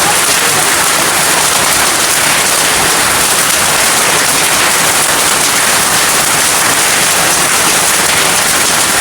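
Heavy rain pouring steadily: a loud, even hiss with no letup.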